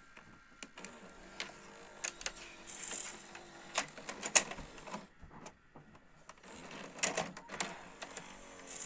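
Panasonic NV-SD300 VHS video recorder's tape mechanism working: scattered mechanical clicks and knocks with short spells of motor whirring, loudest about four seconds in and again about seven seconds in.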